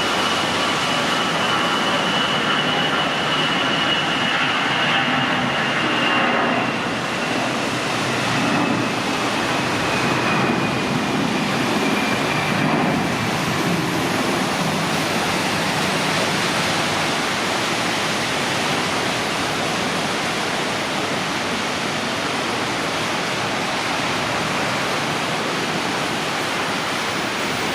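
Airbus A319-114's CFM56 jet engines at takeoff power: a steady roar with a high fan whine that slowly drops in pitch over the first dozen seconds as the jet passes and moves away, leaving a broad, even rumble.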